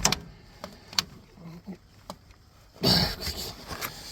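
A few sharp clicks and light knocks as a battery cable clamp is worked against the battery terminal, then a strained grunting exhale about three seconds in.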